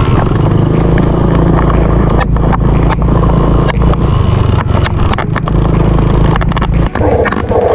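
A small dirt bike engine runs steadily under throttle, with short knocks and rattles through it. About seven seconds in, the engine note drops off suddenly and changes.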